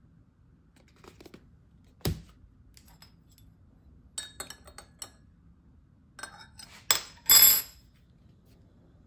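Dishes being handled: a knock about two seconds in, then several light clinks that ring briefly, and a louder short clatter near the end.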